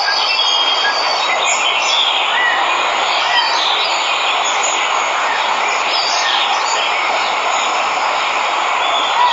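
Steady rush of a waterfall, with birds chirping and calling over it in short notes scattered throughout.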